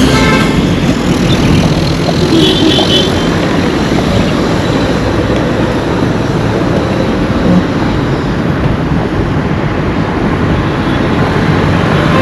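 Road traffic going past: motor vehicles running along the road in a steady, loud wash of noise, with a brief high chirp about two and a half seconds in.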